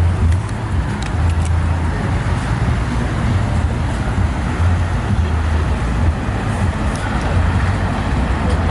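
Car engines running, a steady low drone with traffic noise, as cars move about the lot.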